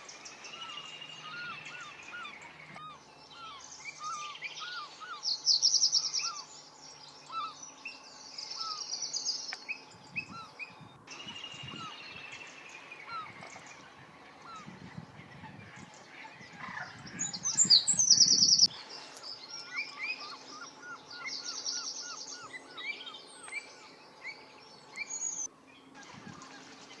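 A mix of wild birds calling and singing: many short, repeated chirps, with a fast, high trill that comes several times.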